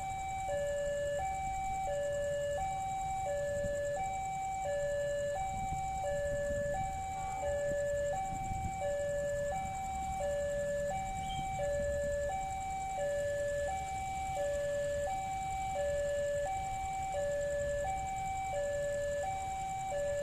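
Electronic railway level-crossing warning alarm sounding, two tones alternating high-low at about one cycle a second, the signal that a train is approaching and the crossing is closing.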